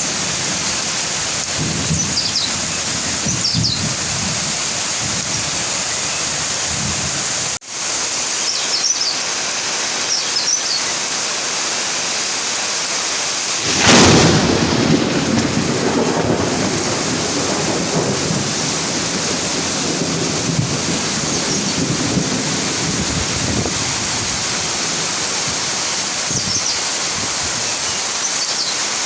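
Steady heavy rain with a thunderstorm. About fourteen seconds in, a sharp thunderclap cracks, then rumbles away over a few seconds. The rain cuts out for an instant about eight seconds in, and faint high chirps come through now and then.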